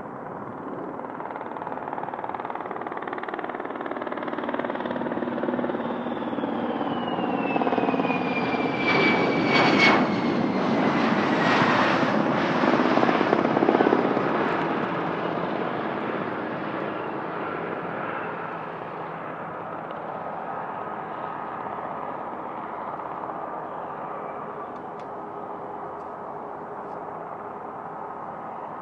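Twin jet engines of an F-15SA fighter on its landing approach: a steady rushing engine noise that grows louder toward the middle and then fades. A high whine in it falls in pitch as the jet passes.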